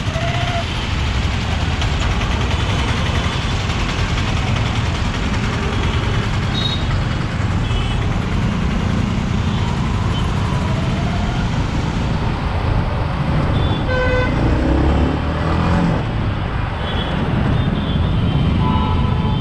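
Yamaha MT-15's 155 cc single-cylinder engine running on the move, heavy wind rush over the action camera's built-in mic, and road traffic around it. A vehicle horn toots briefly about fourteen seconds in.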